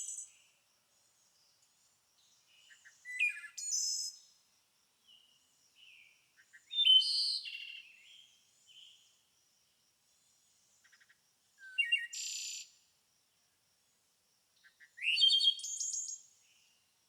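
A songbird singing short, complex phrases of chirps and rapid notes, four phrases a few seconds apart, with softer single chirps between them.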